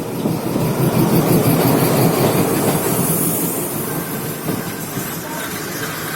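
Passenger train rolling along the track, its wheels clattering on the rails, loudest a second or two in.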